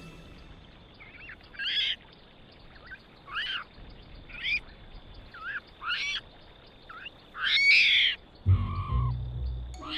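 A series of short chirping animal calls, each a quick up-and-down glide, about one a second. A low rumble comes in near the end.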